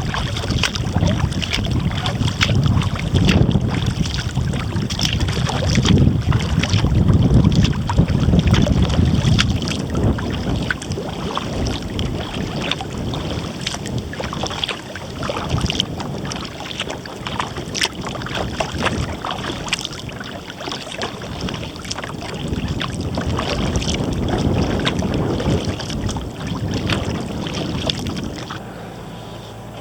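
Kayak paddle strokes splashing and dripping water, with gusty wind rumbling on the microphone.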